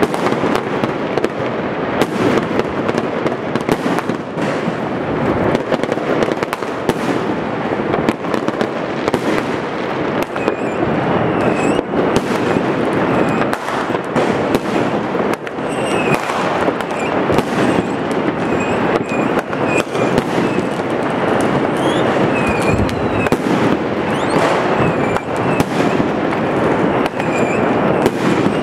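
A dense, unbroken barrage of New Year's fireworks and firecrackers: constant crackling with many sharp bangs overlapping. From about a third of the way in, short high whistles come through the crackle again and again.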